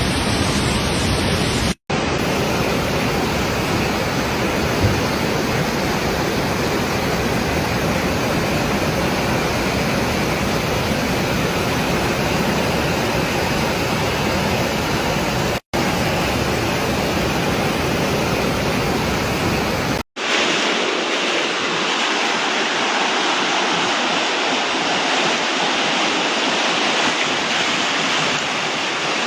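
Steady rush of fast-flowing floodwater, heard as a loud even roar. The sound cuts out abruptly about 2, 16 and 20 seconds in, and after the last cut it is thinner and hissier, without the deep rumble.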